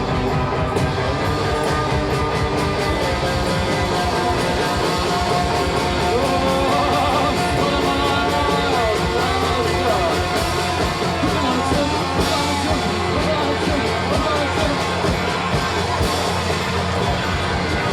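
A rock band playing live without vocals: electric guitars, bass and drums in a dense, loud instrumental stretch, with wavering, bending lead lines from about six seconds in.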